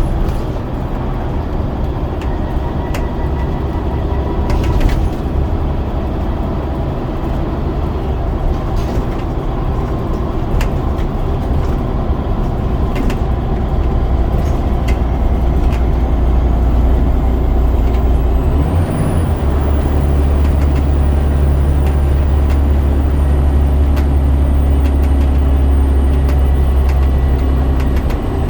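Scania DC9 9-litre diesel engine of a double-decker bus running under way through its ZF Ecomat automatic gearbox, with occasional knocks and rattles. About 19 seconds in, the engine note shifts and settles into a louder, steady drone.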